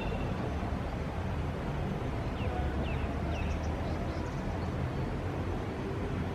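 City street ambience: a steady low traffic rumble, with a few short bird chirps in the middle.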